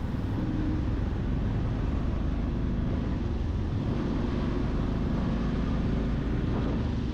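Yamaha FZ-X's 149 cc single-cylinder engine running steadily on the move, with a low rumble and wind and road noise on the microphone.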